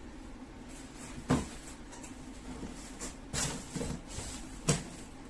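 Handling noise from unboxing: two sharp knocks, one about a second in and a louder one near the end, with a short rustle of packing in between.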